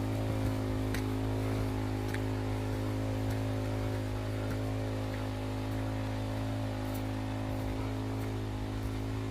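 Hando HD-25C engine water pump running steadily at constant speed, an even, unchanging hum.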